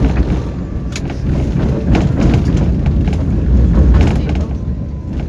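Tram running along the track, heard from inside the car: a loud, heavy low rumble from the wheels and running gear, with a few short knocks.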